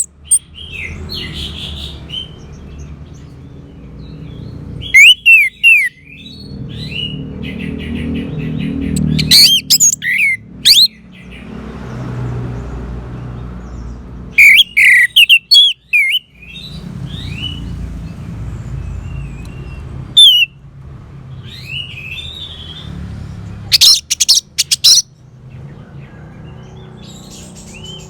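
Orange-headed thrush singing loud, varied whistled phrases that come every few seconds with short pauses between them, over a low steady rumble.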